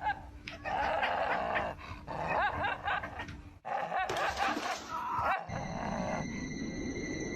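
A dog vocalizing in three noisy bursts over about five seconds, then a steady high tone over low rumbling noise.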